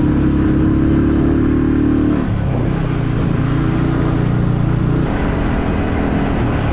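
Vehicle engine running steadily while driving, with an engine drone whose pitch drops about two seconds in and stays lower.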